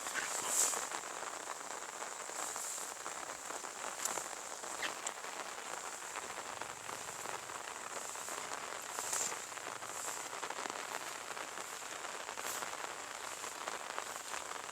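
Light, steady rain falling, an even hiss with a few louder single drops tapping close by now and then.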